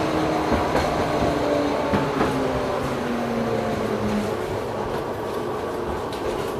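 LM-99K tram running on its rails, with a rumble of wheels and a couple of knocks about two seconds in. Its drive whine falls steadily in pitch over the first few seconds, as the tram slows down.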